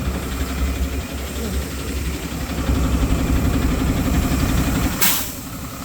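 A 2010 Tata Daewoo Prima cargo truck's diesel engine idling steadily with an even low throb. A short hiss cuts in about five seconds in.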